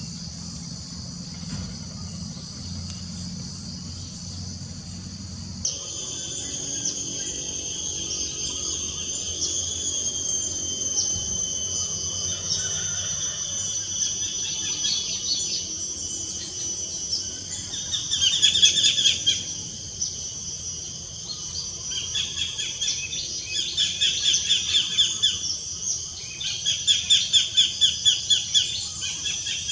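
Forest ambience: a steady high drone of insects, then, after an abrupt change about six seconds in, birds calling in rapid series of repeated notes, about three a second, growing louder toward the end over the insect drone.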